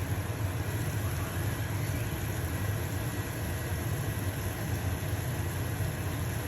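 Stove-top range hood fan running with a steady low hum, over the light sizzle of a pancake frying in a pan.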